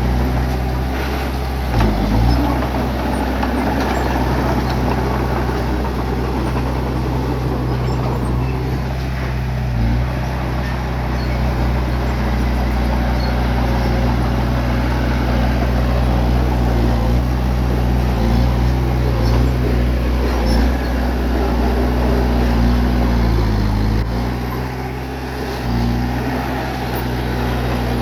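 Bulldozer's diesel engine running steadily while working. Its note dips briefly about two seconds in, again around ten seconds, and once more near the end.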